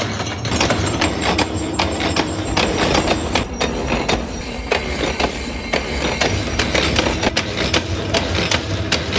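Metalworking factory machinery: frequent metallic clanks and knocks over a steady machine hum, with a thin high whine that stops about seven seconds in.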